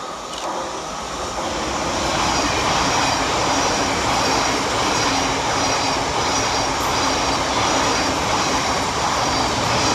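Thameslink Class 700 electric multiple unit going past on the track, a steady rush of wheel and running noise that builds over the first couple of seconds and then holds.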